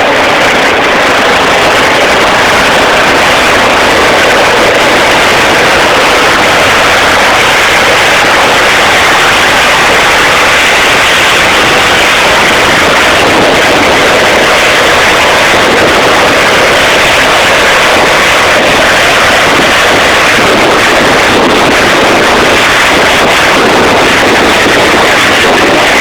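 Helicopter landing close by: loud, steady rotor and engine noise.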